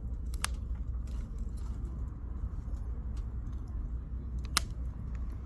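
Wood campfire crackling: scattered sharp pops of burning firewood, a loud one about half a second in and the loudest near the end, over a low steady rumble.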